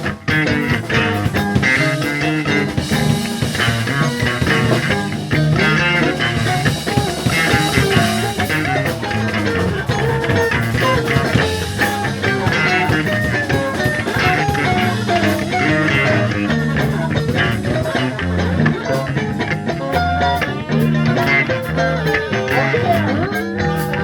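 Instrumental reggae played by a band of electric guitar, bass guitar, drum kit and a horn, at a steady beat throughout.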